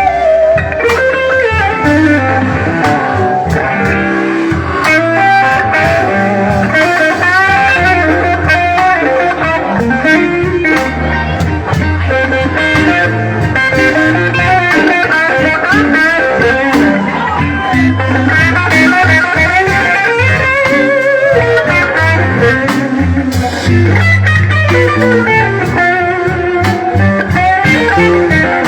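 Live blues band playing an instrumental stretch: an electric guitar solo with bent, wavering notes over bass and drums.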